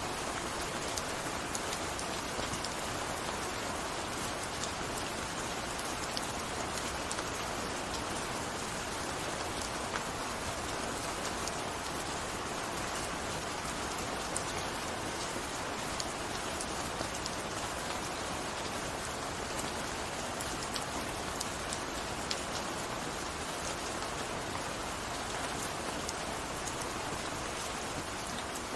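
Steady gentle rain falling, an even hiss dotted with many small individual drop ticks.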